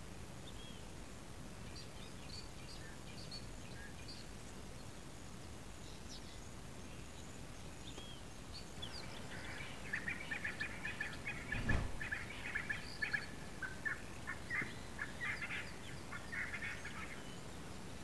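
Birds calling: faint scattered chirps, then from about nine seconds a rapid chattering call that runs for some eight seconds. A single low thump comes near the middle of the chattering.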